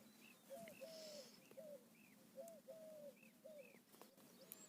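Faint bird calls in the background: short arched notes repeated about twice a second over near silence.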